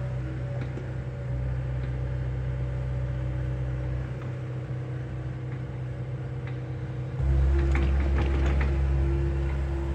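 John Deere excavator's diesel engine running steadily. About seven seconds in it gets louder, as under load, and a few knocks and cracks follow, as of debris being worked.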